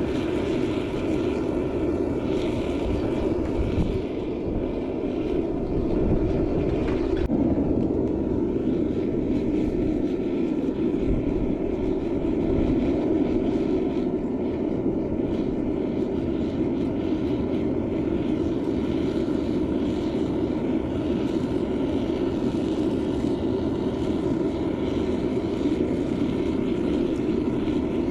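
Gas-fired metal melting furnace burner running steadily, a constant low rushing noise as it heats a crucible of aluminium toward melting.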